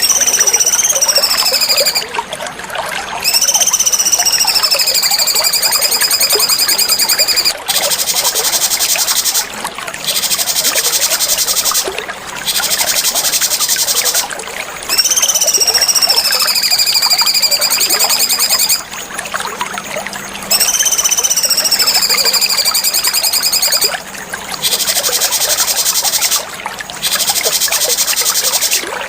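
Cucak cungkok birdsong: long, clear, high whistled notes that rise, dip and hold level, alternating with rapid high chattering trills, the phrase repeating every few seconds. A trickle of running water runs beneath it.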